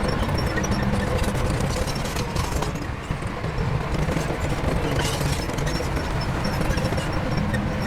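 Heavy diesel construction machinery running steadily, with a slight dip about three seconds in.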